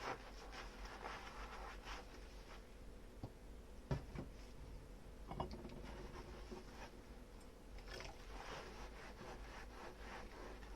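Dishes being scrubbed with a soapy sponge: soft rubbing and scraping, with knocks of dishware about four and five and a half seconds in.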